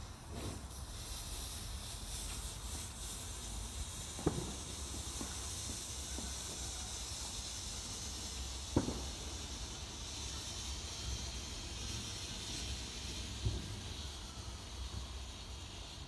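Garden firework fountain hissing steadily as it sprays sparks, with three short sharp pops about four and a half seconds apart.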